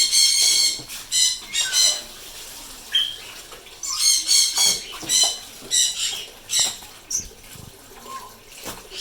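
Common myna chicks giving harsh, high-pitched begging calls in several short bursts while being hand-fed.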